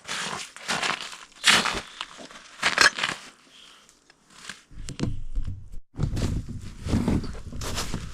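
Irregular crunching and rustling, with a denser low rumble from about five seconds in.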